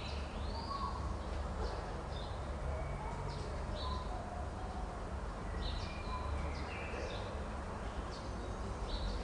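Small birds chirping, with many short high calls and brief gliding notes scattered throughout, over a steady low rumble.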